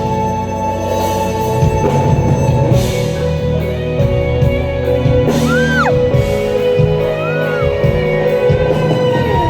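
Live band music echoing in a large hall, with steady sustained chords and a beat, and two short rising-and-falling vocal glides or audience whoops in the middle.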